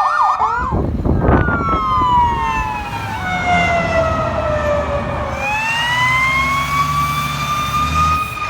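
Fire engine siren switching from a fast yelp to a slow wail. Its pitch falls over about four seconds, then rises again and holds high, over the low rumble of the truck's engine.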